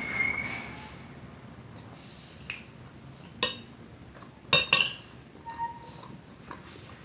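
Cutlery clinking against a plate while eating: a light tap, then a ringing clink a little over three seconds in, and two sharp clinks in quick succession about four and a half seconds in.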